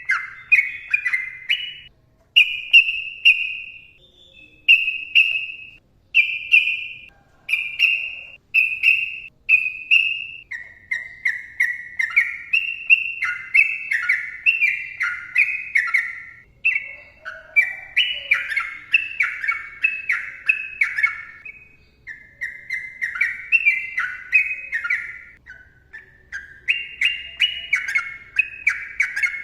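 Sooty-headed bulbul (trucukan) singing loud, clear whistled notes: first a string of separate short notes about one a second, then from about ten seconds in faster, continuous runs of rising and falling phrases.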